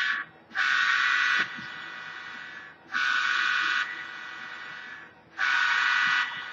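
Buzzy electronic horn blasts from a sound-equipped model locomotive's speaker: four blasts, each just under a second long, with a quieter steady sound between them.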